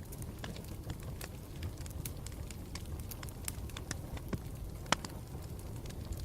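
Campfire burning: a steady low rumble of the flames with frequent irregular crackles and pops of burning wood, one sharper pop about five seconds in.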